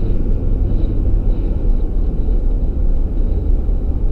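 Steady low rumble of a truck driving: engine and road noise with no breaks or changes.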